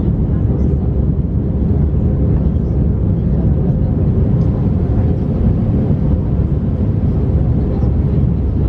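Airbus A319 cabin noise: a steady, loud rumble of the jet engines and airflow, with a faint steady hum on top.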